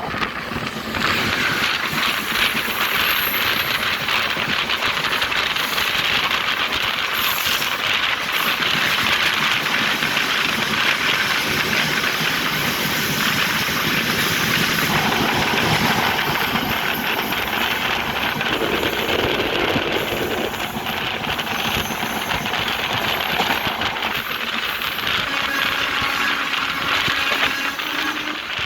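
Indrayani Express passenger train running along the track, heard from on board: a steady, loud noise of wheels on the rails.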